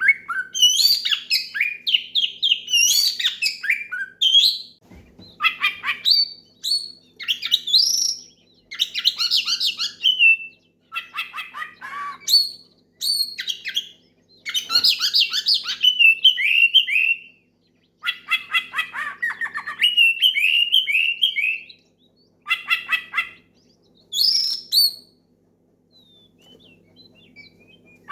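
Oriental magpie-robin (kacer) singing loudly in repeated phrases of fast, varied whistles and rapid trills, broken by short pauses and a longer break near the end. This is a male's full, loud challenge song aimed at rivals. A faint steady hum runs underneath.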